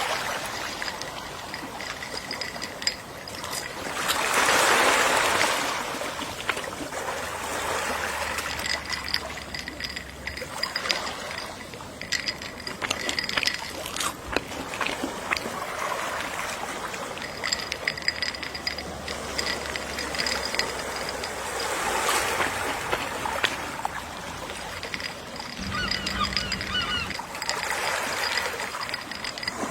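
Gentle sea waves washing ashore in slow swells, the loudest about five seconds in, with occasional seagull calls.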